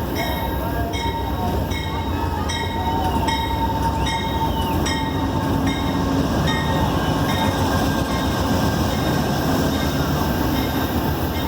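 A passenger train's steady low rumble. For the first half or so, a ringing ding repeats about every three-quarters of a second.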